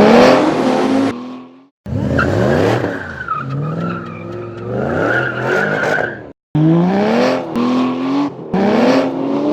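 Car engine accelerating hard, its pitch climbing and dropping again and again as it runs up through the gears, in three abruptly cut passages. A tyre squeal runs through the middle passage.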